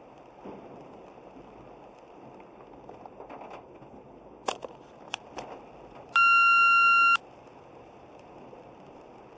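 Steady hiss of heavy rain and road noise, with a few sharp clicks a little past the middle. Then one loud electronic beep lasting about a second.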